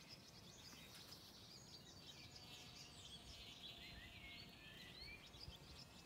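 Near silence with faint background birdsong: many quick chirps and twittering notes, busiest in the middle stretch.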